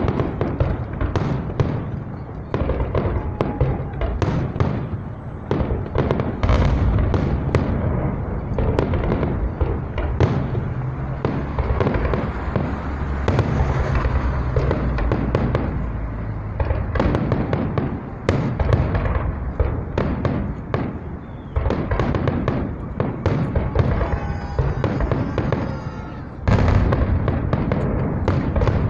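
Salute fireworks going off in a dense, continuous barrage: overlapping sharp bangs and crackles, many a second, over a low rumble. The bursts grow louder near the end.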